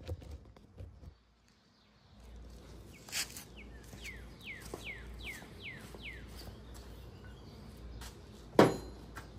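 A bird singing a run of about six quick falling whistles. There are two sharp knocks, the louder one near the end.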